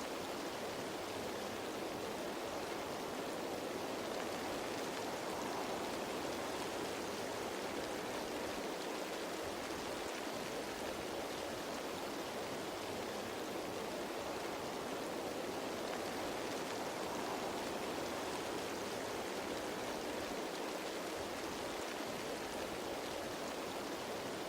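Steady rain falling on leaves, a dense even patter of raindrops.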